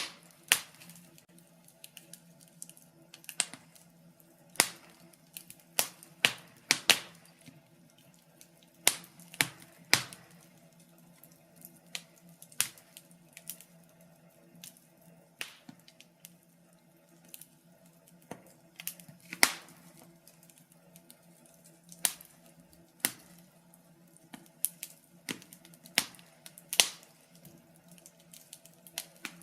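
Wood fire crackling in a fireplace: irregular sharp pops and snaps from the burning wood, a few much louder than the rest, over a faint steady hum.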